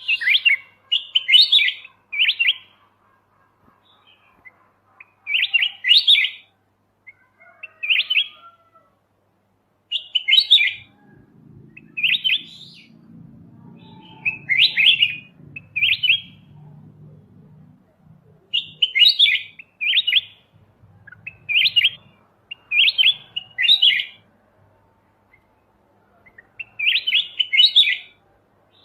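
Kutilang emas bulbul singing short, bright chirping phrases over and over, each under a second long with gaps of a second or two between them. A faint low hum sits under the song for several seconds in the middle.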